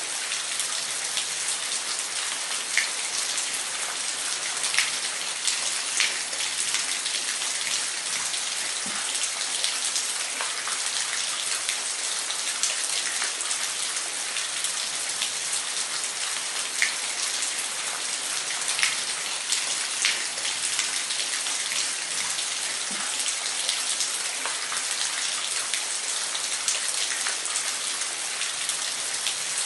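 Waterfall's falling water: a steady, even hiss of splashing water with scattered sharp drips and splashes standing out every second or two.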